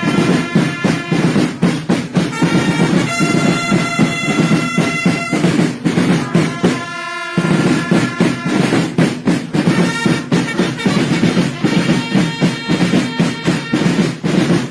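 Sartiglia drum and trumpet band playing: a fast, continuous drum roll with held trumpet notes over it from about three seconds in. The drumming drops out briefly around seven seconds, then starts again with more trumpet notes.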